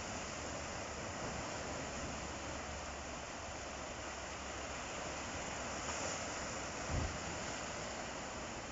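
Ocean surf breaking and washing on the shore as a steady rush of noise, swelling slightly about six seconds in. A brief low thump about seven seconds in.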